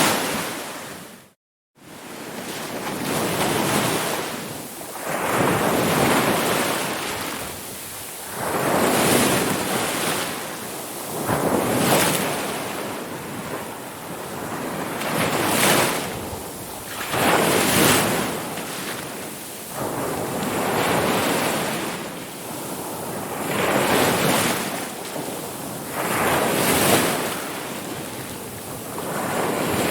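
Ocean waves breaking and washing onto the shore, surging and fading every two to three seconds. There is a brief cut to silence about a second and a half in.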